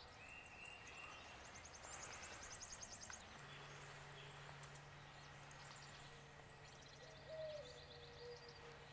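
Faint wild birdsong: a short whistled note, then rapid high trills twice. A low steady hum comes in about a third of the way through.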